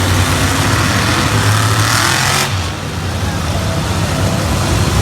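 A loud motor-vehicle engine running and revving, its pitch rising for about a second and a half before dropping off suddenly about two and a half seconds in.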